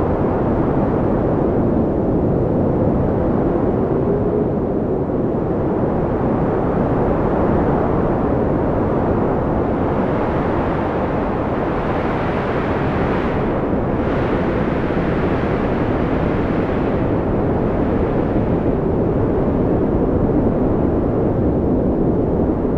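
Wind blowing in a steady, low rushing, swelling into a stronger gust about halfway through before easing back.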